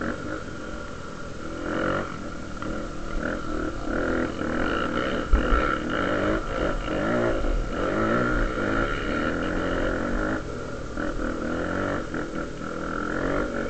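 Honda XR250 Tornado single-cylinder four-stroke engine, bored out to 293 cc, running under way with revs rising and falling. A low thump comes about five seconds in.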